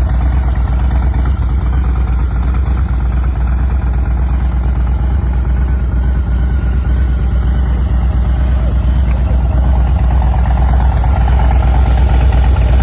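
Harley-Davidson Low Rider ST's Milwaukee-Eight 117 V-twin idling steadily with an even, pulsing beat.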